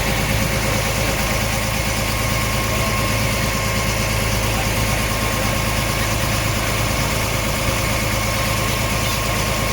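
A ferry boat's engine running steadily, a constant low drone with a steady hum over it.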